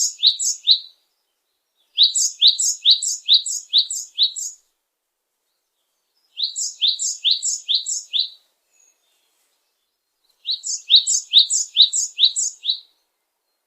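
A songbird singing the same phrase over and over: a quick series of about seven to eight short, rising, high-pitched notes, roughly three a second, lasting two to two and a half seconds. One phrase ends about a second in, and three more follow with pauses of about two seconds between them.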